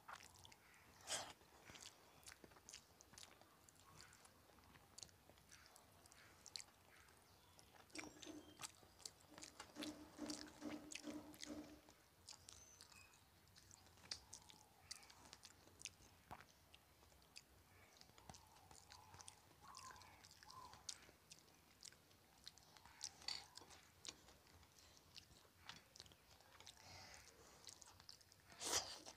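Quiet close-up chewing of a mouthful of rice and fish, with many small wet clicks and smacks.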